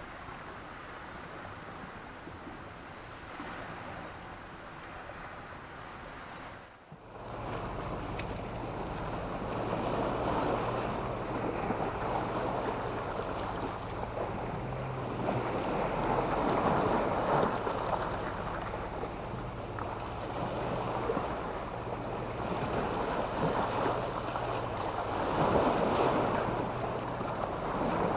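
Sea waves breaking and washing up a shore of black stones and sand. The sound is softer at first, dips briefly about seven seconds in, then grows louder, with bigger surges about halfway through and near the end.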